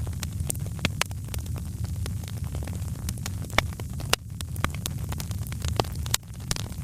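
Wood fire crackling, with irregular sharp pops over a steady low rumble; a few pops stand out louder.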